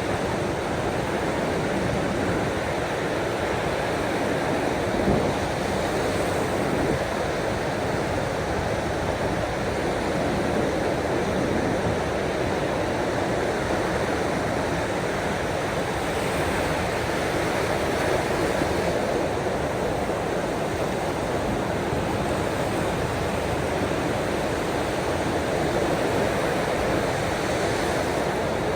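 Ocean waves washing steadily on the shore, an even rushing noise with no distinct breaks.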